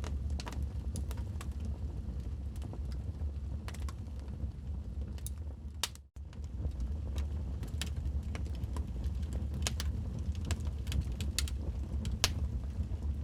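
Logs burning in a fireplace, crackling and popping with irregular sharp snaps over a steady low rumble. The sound cuts out for a moment about halfway through, then carries on.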